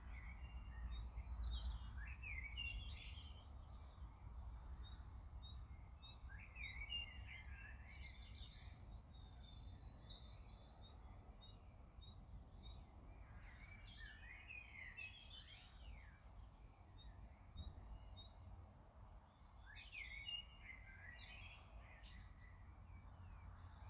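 Faint birdsong: a few birds singing in bouts of quick, warbling, gliding phrases every several seconds, over a steady low rumble of wind.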